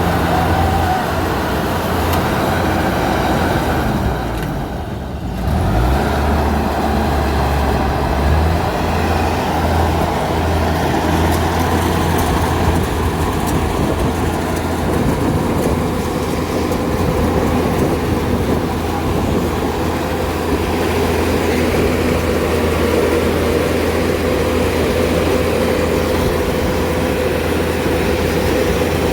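Kubota DC70 rice combine harvester's diesel engine and threshing machinery running at full power. Its steady drone dips briefly about four to five seconds in, then rises back up to speed.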